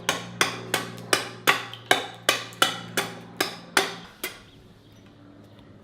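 A hammer striking wood in a steady run of blows, about three a second, each with a short ring, about a dozen in all, stopping a little after four seconds in.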